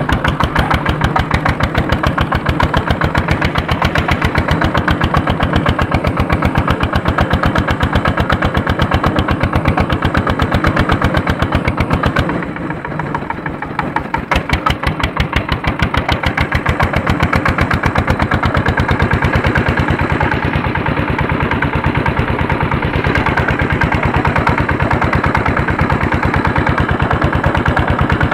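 Andoria single-cylinder diesel tractor engine running under load while pulling a harrow, with a rapid, even firing beat. About twelve seconds in it goes briefly quieter, then picks back up.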